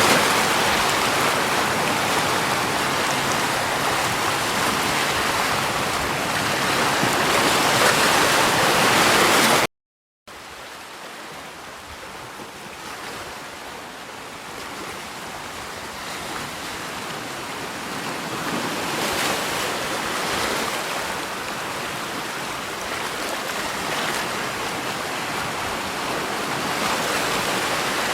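Steady rush of running water. About ten seconds in, it cuts out for half a second and returns much quieter, then slowly builds back up.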